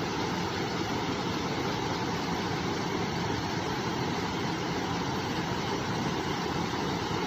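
Flowing river water rushing steadily, an even unbroken noise with no change in level.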